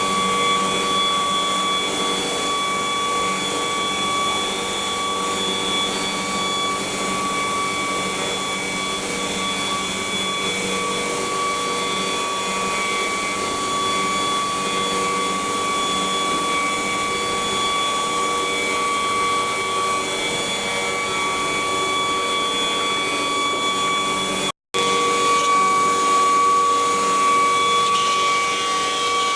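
CNC wood router's spindle running steadily with a constant whine while its bit carves wood. The sound cuts out for an instant near the end.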